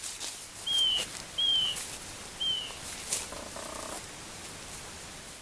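A small bird calling in the woods with short, high, downward-slurred notes, three of them spaced under a second apart in the first few seconds, over light crackling and rustling.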